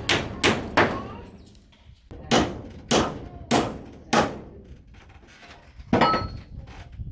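Series of hand-tool blows on wood: three quick strikes, a pause of over a second, four evenly spaced strikes, then a last sharper blow near the end with a brief metallic ring.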